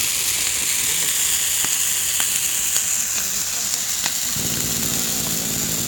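Campfire burning fresh green hinoki cypress foliage, a steady sizzling hiss with scattered sharp crackles and pops. About two-thirds of the way through, a low engine hum sets in and carries on.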